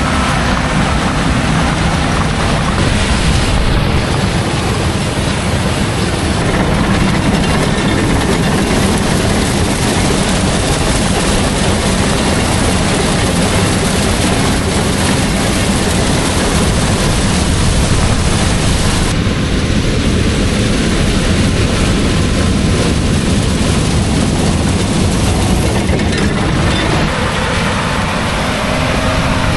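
Heavy diesel farm machinery running steadily at harvest: a low engine drone under loud, constant mechanical noise. The mix changes about two-thirds of the way through and again near the end.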